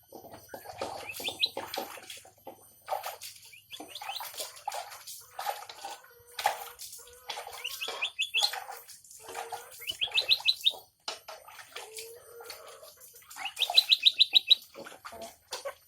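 A songbird singing a varied, busy song of sharp chips and calls, broken by several quick trills of high, evenly repeated notes under a second long, the loudest trill near the end.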